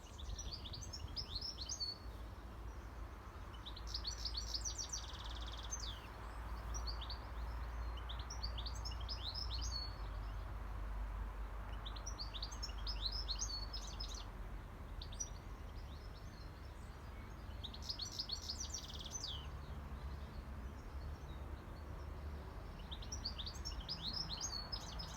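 European goldfinch singing: short twittering phrases of rapid high notes, repeated every few seconds, over a low steady rumble.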